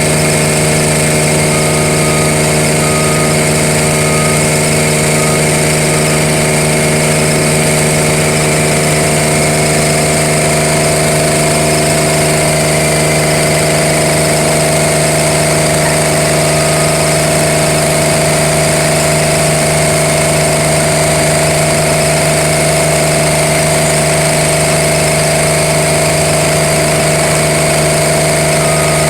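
Milling machinery running steadily: a constant hum with a higher whine over it, holding one speed with no change in load.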